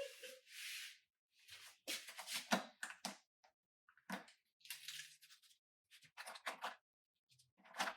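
Marker writing on a clear acrylic board: a series of short scratchy strokes with brief pauses between them.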